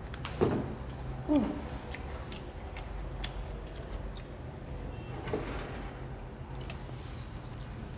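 Mouth sounds of people eating McDonald's french fries: soft chewing with scattered small clicks. There are a couple of brief voice sounds in the first second and a half.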